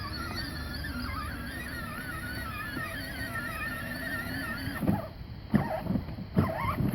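Electric ride-on toy truck's motor and gearbox whining as it drives forward, the pitch wavering with the load, for about five seconds before it stops; a few short knocks follow near the end.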